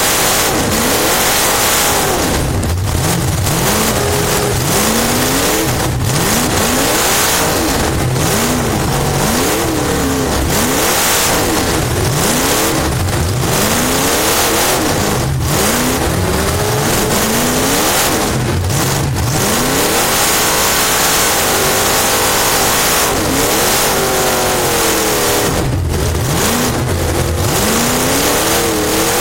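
Race car engine heard from inside the car, its pitch rising and falling every second or two as it accelerates and lifts, over a loud steady rush of noise.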